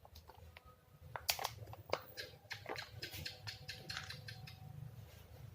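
Light, irregular clicks and taps of a sealed plastic cup being handled and tipped over, to show that the lid film holds.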